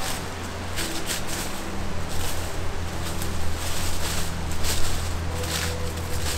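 Footsteps crunching through dry leaves and twigs on a forest floor, at an irregular walking pace, over a steady low hum.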